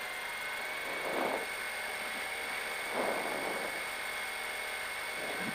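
Ford Escort MkII rally car's engine idling, heard from inside the cabin, with a steady high whine over it. Two brief swells of noise come about one and three seconds in.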